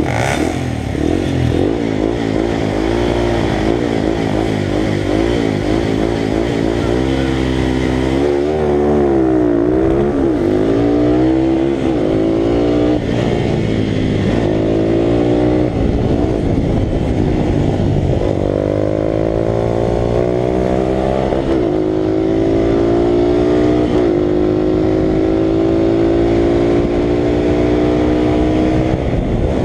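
Italika RT200's single-cylinder four-stroke engine racing hard, its pitch repeatedly climbing and dropping through gear changes. Over the last several seconds it holds high revs with the pitch slowly rising.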